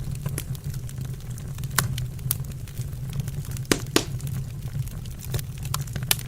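Wood fire burning in a fireplace: irregular sharp crackles and pops over a steady low rumble, with a few louder pops about two and four seconds in.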